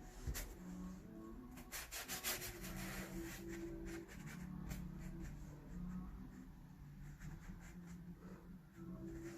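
Paintbrush rubbing and dabbing on watercolour paper: a run of short scratchy strokes, thickest about two seconds in, then lighter strokes, with faint background music.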